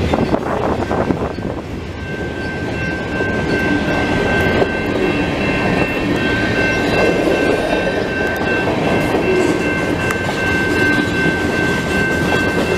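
Canadian Pacific freight train rolling past at a level crossing: a continuous rumble and clatter of freight cars on the rails, with steady high-pitched tones running over it.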